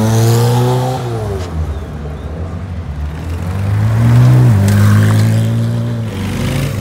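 Cars pulling away one after another. A race-liveried sports car accelerates past and fades. Then a red Porsche 911 GT3 RS's naturally aspirated flat-six revs up, drops sharply in pitch about four and a half seconds in, and carries on pulling away.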